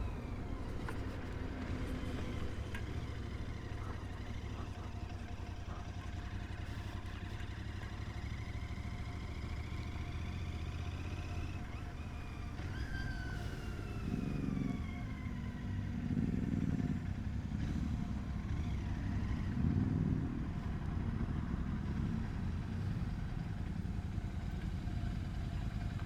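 Motorcycle riding in traffic: a steady low engine and wind rumble, with a falling-pitched tone near the start and again about 13 s in, and a louder stretch of engine sound from about 14 to 21 s.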